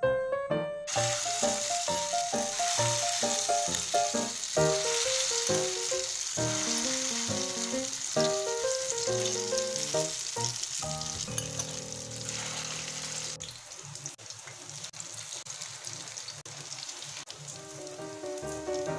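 Tofu fritters sizzling as they fry in hot oil in a pan. The sizzle starts about a second in and grows fainter in the second half. Background music plays over it and pauses for a few seconds in the latter half.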